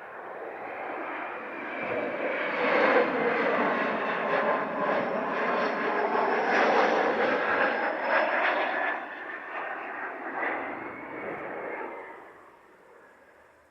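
Jet aircraft passing close by: engine rumble with a steady whine builds over the first few seconds, stays loud, then fades away near the end.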